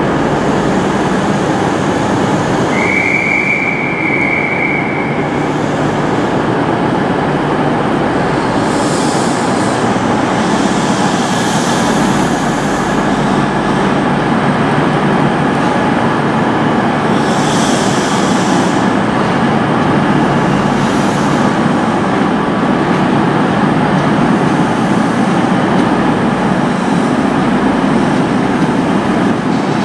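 Empty Caledonian Sleeper train, hauled by Class 90 electric locomotives, rolling slowly past with a steady rumble of wheels on rail. A brief high-pitched wheel squeal comes about three seconds in.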